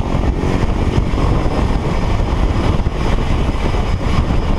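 Loud, steady rush of wind noise buffeting the microphone, with a light aircraft's propeller engine drone fading out right at the start.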